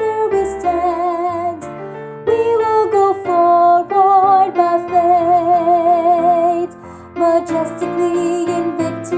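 A female soprano voice singing long held notes with vibrato over piano accompaniment, with a short break about two-thirds of the way through.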